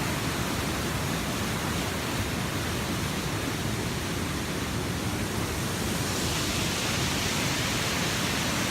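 Waterfall rushing in a steady, loud, even roar; its hiss grows brighter about six seconds in.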